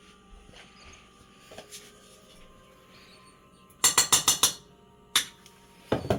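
Kitchen utensil knocking against cookware: a quick run of about seven sharp taps, then a single tap, then two more near the end.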